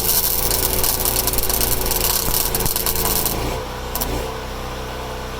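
Crawler dozer's engine running, with a loud rattling high-pitched noise over it that cuts off about three and a half seconds in, leaving the engine idling steadily.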